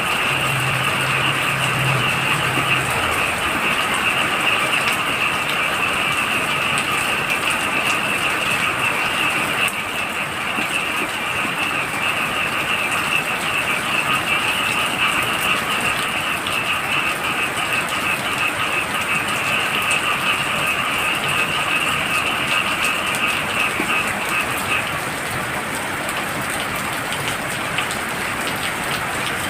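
Heavy night rain falling steadily, with a chorus of frogs calling in high, rapidly pulsing trills that stop near the end.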